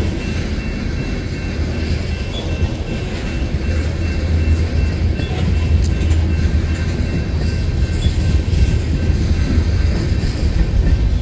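Freight train of tank cars and covered hoppers rolling past close by: a steady low rumble of wheels on rail, with a faint steady high ringing tone over it.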